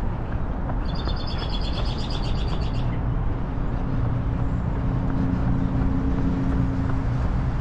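A small bird's rapid, pulsing trill for about two seconds near the start, over a steady low rumble of traffic.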